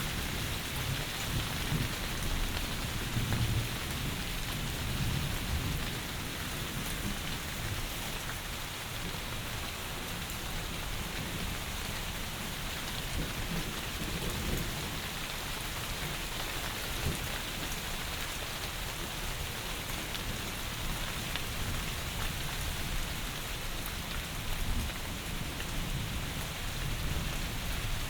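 Heavy rain falling as a steady, even hiss, with low thunder rumbles swelling a few seconds in and again near the end.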